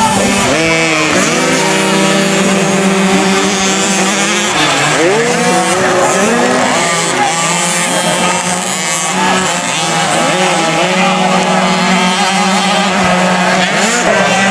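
Several 50cc two-stroke motocross bikes racing, their engines revving up and down over one another.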